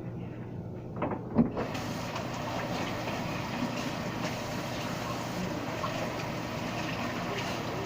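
A couple of knocks, then a kitchen tap starts running about a second and a half in, water flowing steadily as slime is washed off the hands.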